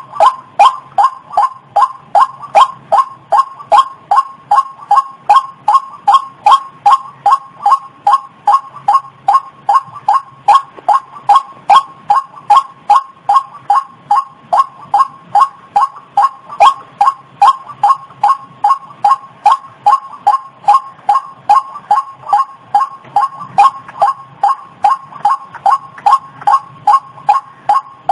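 White-breasted waterhen call played as a lure: a steady, unbroken series of short notes, about two and a half a second, each dipping slightly in pitch.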